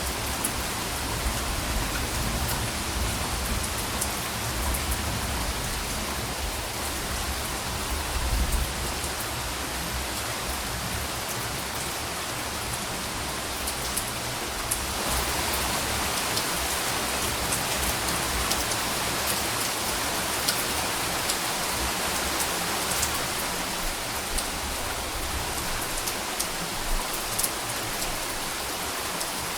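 Steady rain falling on a surface, with single drops ticking sharply through the even hiss.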